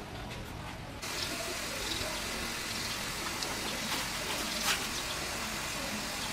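A steady hissing spray starts suddenly about a second in and keeps going, with a few faint clicks over it.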